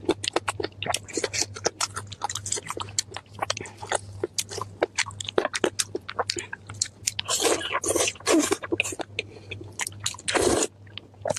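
Close-miked crunching and chewing of crisp food, a rapid run of sharp crackles, with longer, thicker bursts of crunching about seven and a half seconds in and again about ten seconds in.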